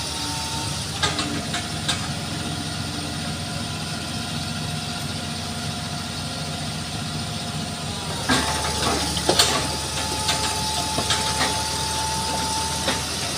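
Palm-oil truck's engine running with a steady hiss and scattered knocks, getting louder about eight seconds in. The engine has broken down from being forced along a muddy road.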